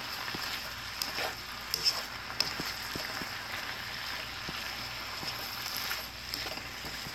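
Mixed vegetables sizzling in hot oil in a nonstick pan as they are stir-fried with a spatula, starting to sweat over medium-high heat. A couple of sharp taps of the spatula on the pan come about two seconds in.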